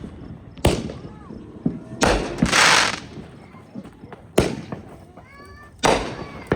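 Fireworks going off: about five sharp bangs, spaced a second or two apart. One about two and a half seconds in is followed by a half-second crackling hiss.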